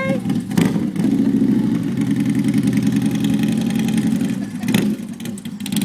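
Motorcycle engine running steadily at low speed, with a brief click about half a second in and another near the end.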